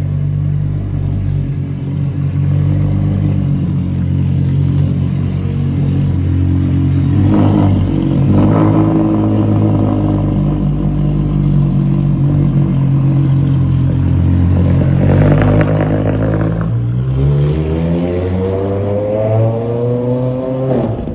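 Porsche supercar engine idling high just after a cold start, with two brief rougher bursts in the middle. Over the last four seconds the revs climb steadily, then drop away at the end.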